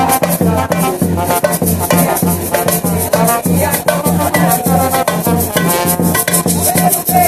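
Live bumba-meu-boi percussion: low drums beat a steady rhythm about twice a second while maracas rattle, with voices singing over it.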